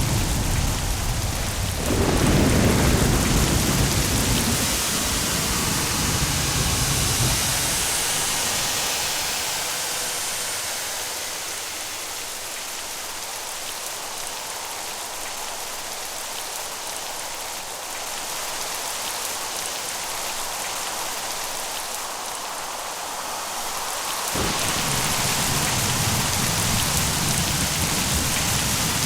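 Steady rain with rolling thunder. The thunder rumbles loudest about two seconds in and dies away by about eight seconds. Rain alone follows, then the low rumble comes back suddenly near the end.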